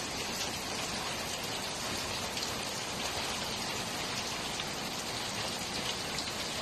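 Heavy rain falling steadily on a rooftop: an even, unbroken hiss of rain.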